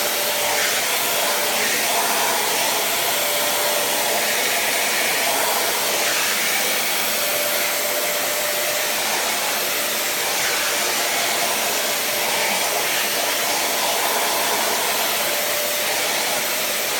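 Vacuum cleaner running steadily, with a faint whistling tone that comes and goes in the airflow.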